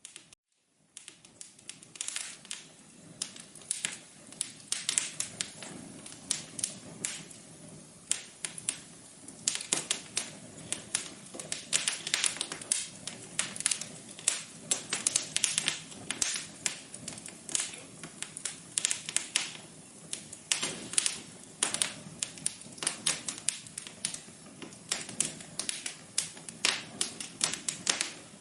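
Fireplace fire crackling, a dense run of irregular sharp pops and snaps that starts about a second in.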